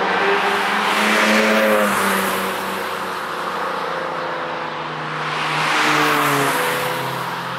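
Cars passing at speed on a race track, one about a second in and another about six seconds in. Each pass swells and fades with engine and tyre noise.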